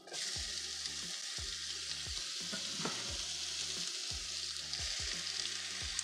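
Sliced red onion dropped into hot oil in a cast-iron frying pan: the sizzling starts suddenly as the onion goes in and carries on steadily.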